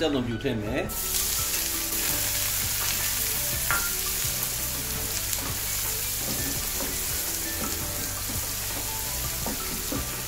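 Chopped onion and garlic sizzling steadily in hot oil in a non-stick frying pan, stirred with a wooden spoon. The sizzling sets in about a second in, after a voice stops.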